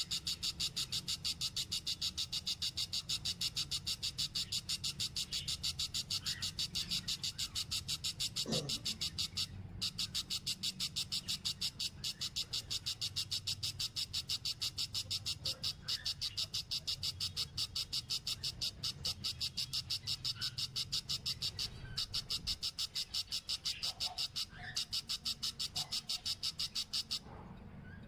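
A high-pitched animal call in a steady train of rapid, evenly spaced chirping pulses, several a second, breaking off briefly a few times, over a faint low hum.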